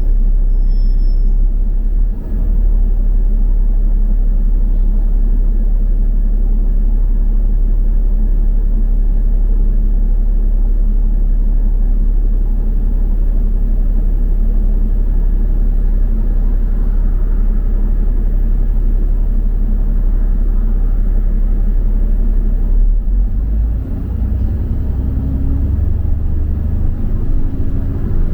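Double-decker bus running: a steady low engine and road rumble, with the engine note climbing over the last few seconds as it speeds up.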